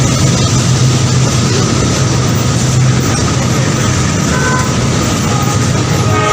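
Train running along the track: a steady, loud rumble and rail noise, with a low engine hum that fades about halfway through.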